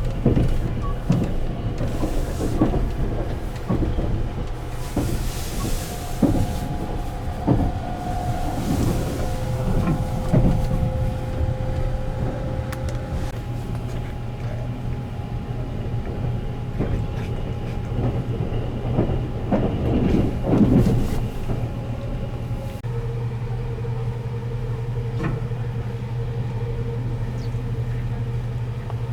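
285 series Sunrise Express sleeper train running, heard on board: a steady hum with irregular clicks and knocks from the wheels over the rails. It settles into a smoother run about 23 seconds in.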